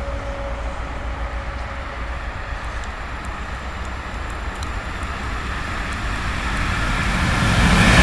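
Electric freight train approaching along the line behind a DB electric locomotive, its running noise growing steadily louder over the last few seconds as it nears.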